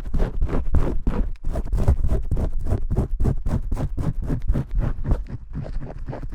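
Vigorous shampooing: fingers rapidly scratching and rubbing lathered hair, several rough strokes a second in an unbroken run.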